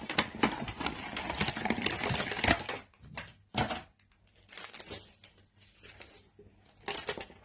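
Rustling and quick clicking of a headphone box's packaging being handled as an audio cable is pulled out of it. The sound is dense for the first three seconds, then thins to scattered rustles and taps.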